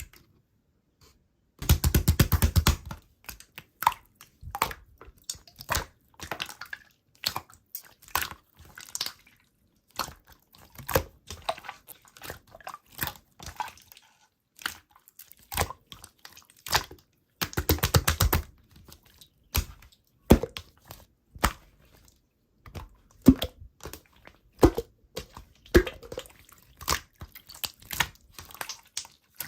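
Slime being squeezed and kneaded by hand, giving wet squishes and sharp clicking pops of trapped air, with two stretches of rapid crackling about two seconds in and again near the middle.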